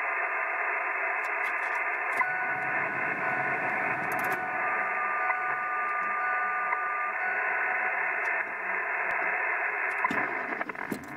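Radio receiver hiss and static, cut off at the top as through a narrow radio passband. About two seconds in, the noise turns rougher and faint steady whistles appear, and it changes again near the end: radio frequency interference from the vehicle's engine being started and shut off.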